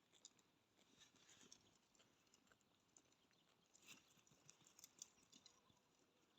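Near silence with faint, scattered light ticks and rustles.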